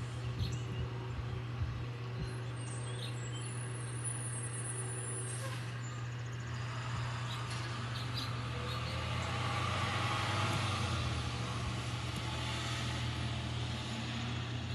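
International truck's engine running steadily, getting a little louder about halfway through.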